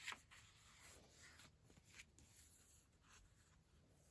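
Near silence, with a faint rustle of paper pages being handled.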